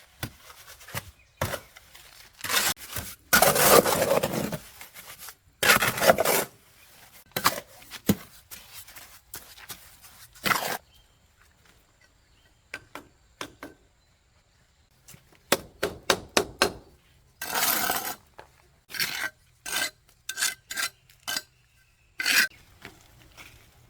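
Irregular hand-work sounds: scraping and rubbing strokes with light clinks and knocks. There is a lull of near quiet about halfway through, then quicker clusters of short knocks.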